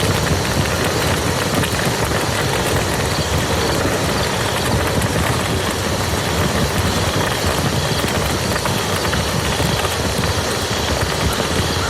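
Steady rain falling on a muddy field: a dense, even hiss scattered with small drop ticks over a low rumble.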